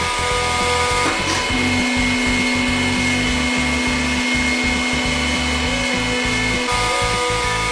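Hydraulic press pump and motor running steadily as the ram retracts, a whine of several held tones, with a lower hum that sets in about a second and a half in and stops near the end.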